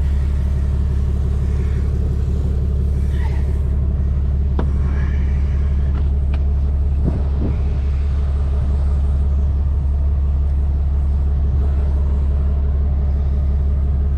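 Steady low engine rumble of a vehicle idling close by, unchanging throughout, with a few faint clicks in the middle.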